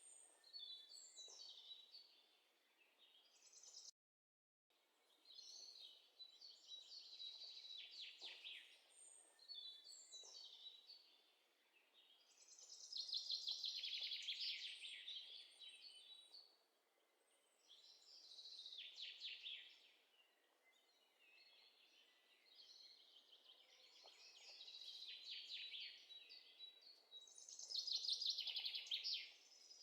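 Faint bird song: short, high chirping and trilling phrases, many falling in pitch, repeating every few seconds.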